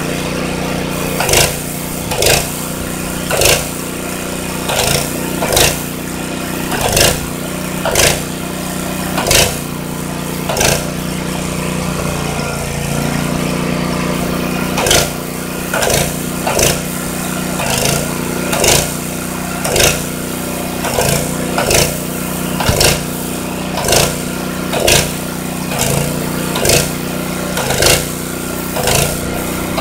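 Airless paint sprayer running: a steady motor hum with a short pulse about once a second as the pump strokes while paint is sprayed. The pulses stop for a few seconds about twelve seconds in, then resume.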